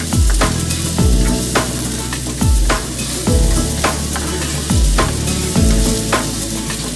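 Chopped red onion and garlic sizzling as they fry in a nonstick pan and are stirred with a spatula. Background music with a deep, falling bass beat about once a second plays over it.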